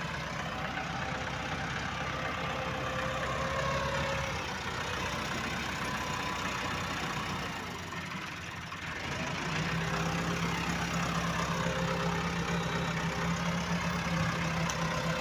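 Engine running steadily. It dips briefly about eight seconds in, then picks up again with a steady low hum.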